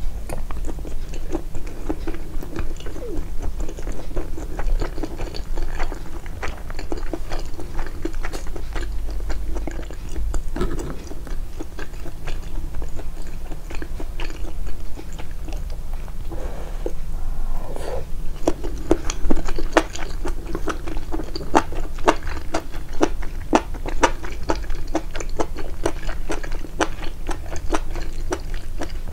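Close-miked chewing and biting of grilled mutton and rice, boosted in editing: a dense, irregular run of small crunches and wet mouth clicks.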